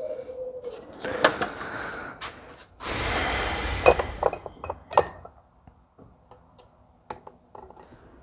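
Small metal parts and hand tools clinking and knocking on a workbench while an injection pump is taken apart. A spray-like hiss lasts about a second and a half, about three seconds in.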